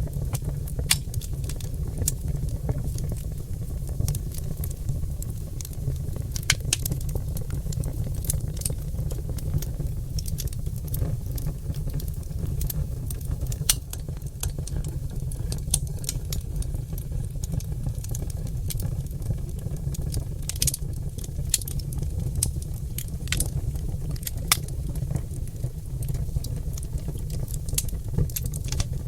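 Oak logs burning in a fireplace, crackling and popping in quick, irregular snaps over a steady low rumble.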